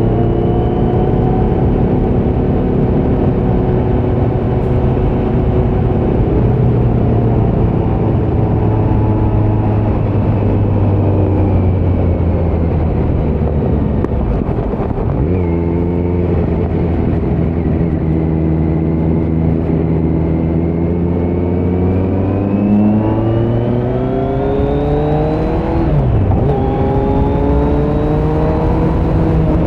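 2018 Kawasaki Z900's inline-four through a Leo Vince muffler on stock headers with no dB killer, heard from the saddle. It holds steady revs for the first half with a brief shift in pitch about halfway, then climbs in pitch under acceleration, drops sharply at an upshift, and climbs again to another shift near the end.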